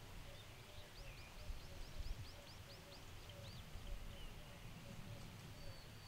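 A small songbird singing a rapid run of about a dozen high chirps, about five a second, lasting two to three seconds. Other faint bird calls come and go over a low outdoor rumble.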